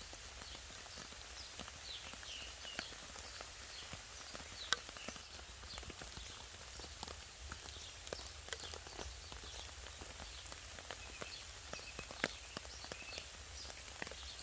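Faint woodland ambience: small birds chirping over a soft hiss, with scattered sharp ticks throughout.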